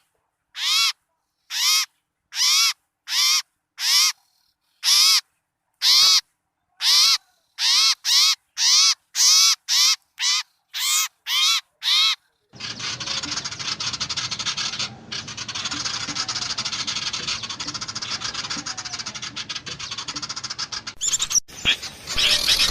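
A bird-luring recording of small birds: a harsh, scolding bird call repeated about once a second, quickening to about two a second. About halfway through it cuts abruptly to a dense, busy chatter of many small birds calling at once.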